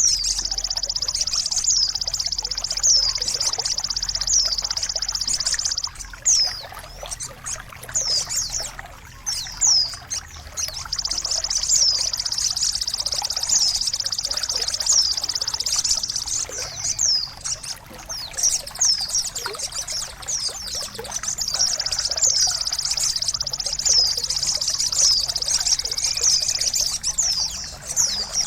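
Recorded songbird song for training caged birds: a fast, high-pitched trill with quick sharp whistled notes repeated over it, set against trickling water. The trill breaks off about six seconds in and returns later.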